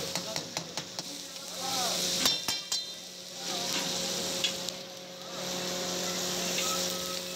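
Chicken karahi sizzling in a wok over charcoal, with a metal ladle clinking and scraping against the pan in quick strokes during the first second and again about two and a half seconds in. A steady low hum runs underneath.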